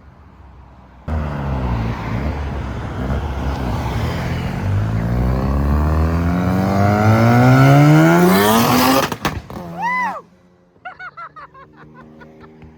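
Rotary-engined Mazda accelerating hard, its engine note rising steadily for about eight seconds before cutting off abruptly with a few sharp crackles. A quick rev blip follows, then quieter engines idling.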